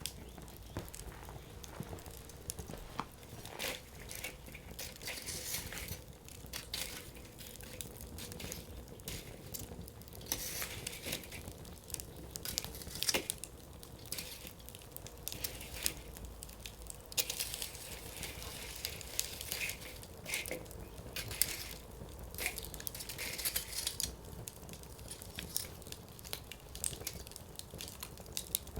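Firewood burning in a Coleman Fire Disk: logs crackling with many irregular sharp pops and a few brief spells of hissing.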